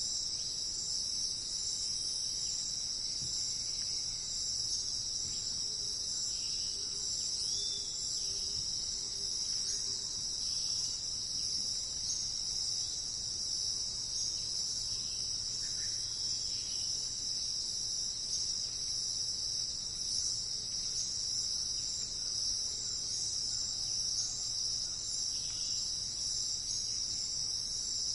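Steady, high-pitched insect chorus, unbroken throughout, with a few faint short calls scattered beneath it.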